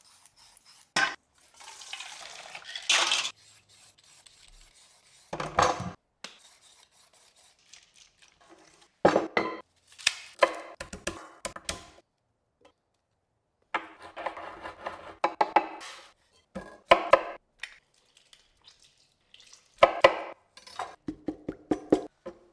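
Pestle pounding ingredients in a mortar for som tum: several short runs of quick, sharp strikes, with other kitchen handling sounds between them.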